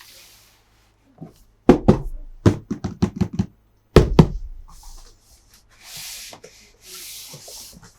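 Hands handling plastic and cardboard toy packaging: runs of sharp knocks and clicks, with loud ones about two and four seconds in, then softer rustling scrapes near the end.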